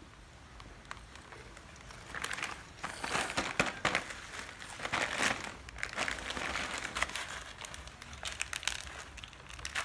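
Plastic snack bag crinkling and rustling as it is handled, in a run of bursts that starts about two seconds in.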